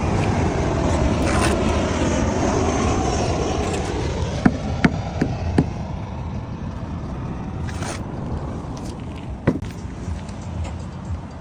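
A power tool's motor running under load with a loud scraping, strongest for the first few seconds and then easing off, with several sharp knocks about halfway through and one more near the end.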